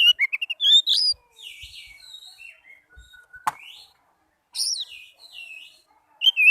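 Oriental magpie-robin (kacer) singing: rapid runs of high chirps and whistled notes, loudest in the first second and again near the end, with quieter phrases between. A single sharp click a little past the middle.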